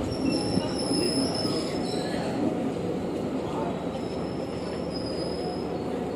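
Indonesian KAI economy-class passenger coaches rolling slowly past a station platform: a steady rumble of wheels on the rails, with thin high-pitched squeals that come and go.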